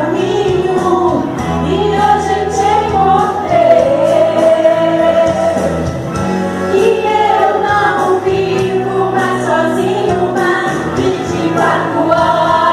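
Gospel song sung by a group of voices with instrumental accompaniment: held low notes under the melody and a steady beat.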